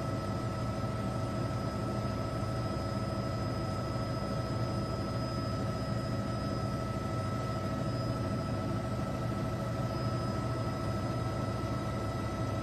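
Steady drone of a helicopter's engine and rotors, unchanging throughout, with a few steady high-pitched whining tones over a low hum.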